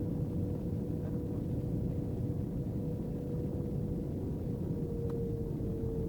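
Inside an Airbus A319's cabin: a steady low rumble from the engines and airframe, with a steady whine that dips slightly in pitch about five seconds in.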